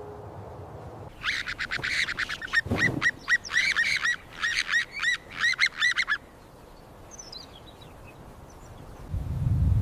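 A bird giving a rapid series of short, harsh calls, about four a second, which stop about six seconds in. There is a low thump near the middle of the series and a low rumble near the end.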